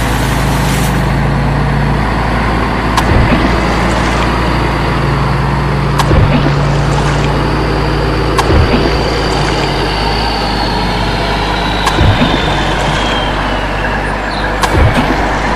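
Truck engine running steadily with a deep hum, with a sharp knock every three seconds or so.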